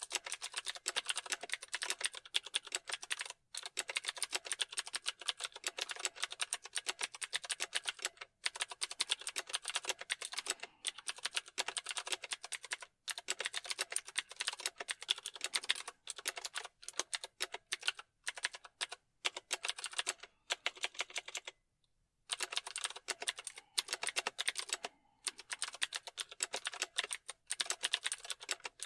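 Computer keyboard being typed on fast and steadily, a dense run of key clicks broken by brief pauses, the longest about three quarters of the way through.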